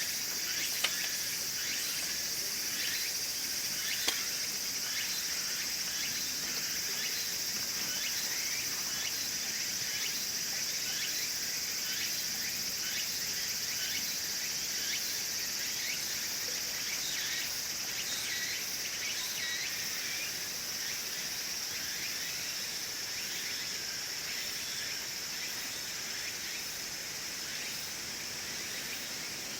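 Steady outdoor chorus of crickets and other insects, with a high constant trill and many short chirps. Twice in the first few seconds there is a sharp pop, typical of burning wood crackling in the wood stove.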